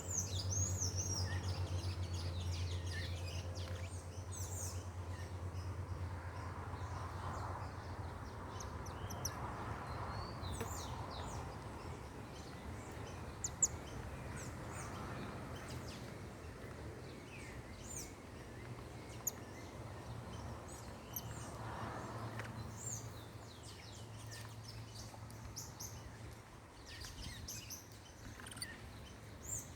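Several small birds chirping and calling in short, high notes scattered throughout, over a steady low hum that fades after the first few seconds and returns faintly later.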